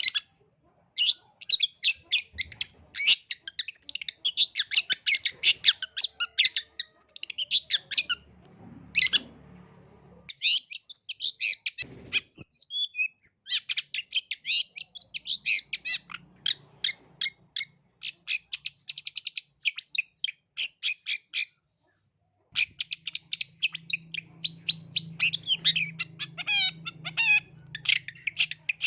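Long-tailed shrike (cendet) singing a fast, scratchy chattering song of rapid, high-pitched notes, breaking off twice for about a second.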